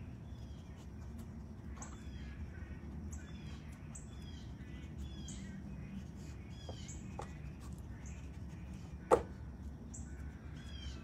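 Birds chirping with repeated short, high, falling notes, and a single sharp knock about nine seconds in.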